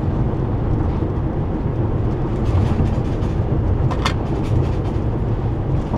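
Steady road and engine noise of a van being driven, heard from inside the cabin, with a single short click about four seconds in.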